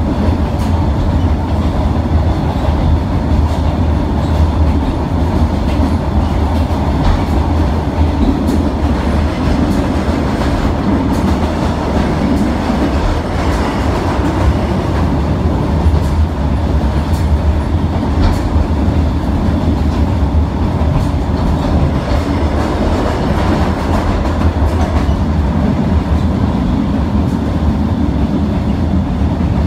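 Passenger train running along the track: a steady low rumble of wheels on rail, with frequent irregular clicks as the wheels pass over rail joints and points.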